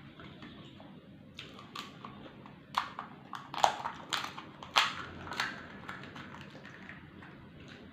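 Close-miked mukbang eating: a run of sharp, crisp crunches as crunchy Indian snack food is bitten and chewed, loudest in the middle.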